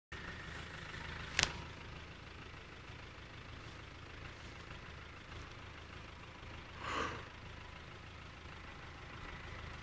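Off-road 4x4 Land Rover Discovery engine running low and steady as it creeps down a slope. A sharp click comes about a second and a half in, and a short rush of noise about seven seconds in.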